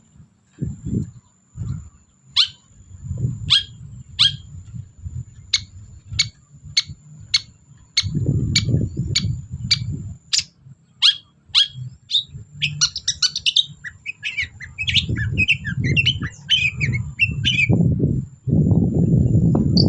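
Long-tailed shrike (cendet) calling: a series of short, sharp notes sweeping downward, about two a second, then a fast chattering run of mixed notes near the end. A low rumbling noise and a faint steady high tone run underneath.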